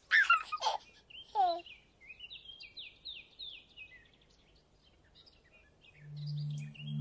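Birdsong: chirps and falling whistles, with a quick run of descending notes about two seconds in, then sparser chirps. A low steady musical note fades in near the end.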